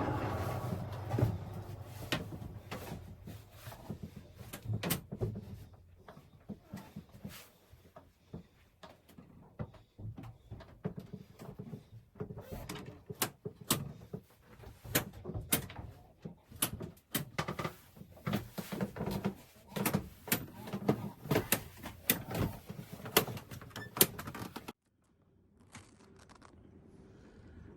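Irregular knocks, clicks and clatter of things being handled and set down, some sharp and loud. They stop abruptly a few seconds before the end, leaving a faint steady background.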